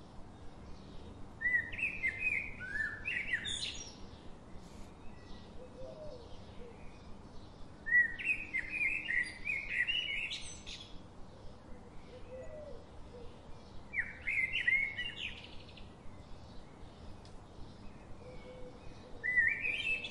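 Birdsong: a songbird sings a short warbling phrase that climbs in pitch, four times about six seconds apart, over faint quick chirping in the background.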